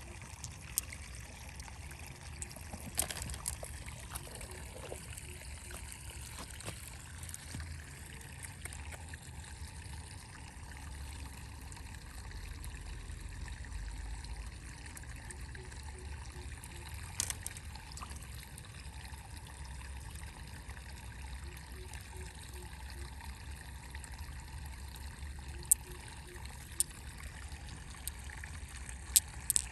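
Water trickling steadily, with a few sharp clicks now and then.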